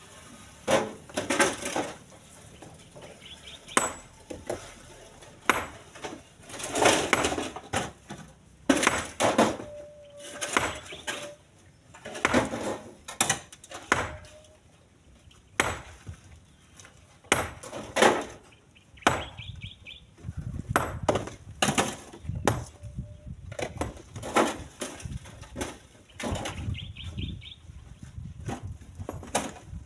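Split stones being thrown and dropped into a truck's cargo bed: irregular sharp clacks and clatters of rock on rock and on the bed. Some drops are single knocks and others short rattling runs, coming every second or two.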